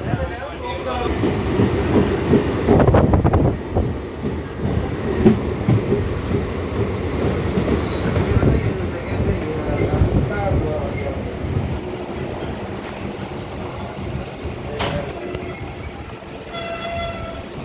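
A train running on the rails with a low rumble, its steel wheels squealing high-pitched against the track. The squeal comes and goes at first, then holds for several seconds near the end.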